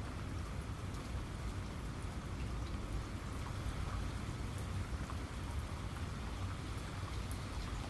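Steady rain with scattered individual drop ticks on a surface.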